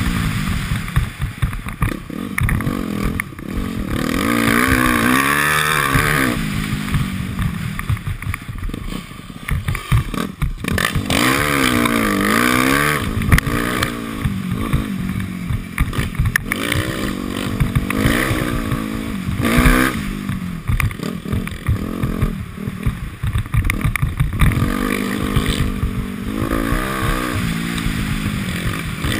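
Dirt bike engine ridden hard, its pitch climbing and dropping over and over as the throttle is opened and shut, with knocks and clatter from the bike over rough ground.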